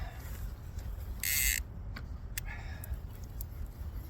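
Wind rumbling on the microphone, with one short, loud hiss about a second in and a few faint clicks after it.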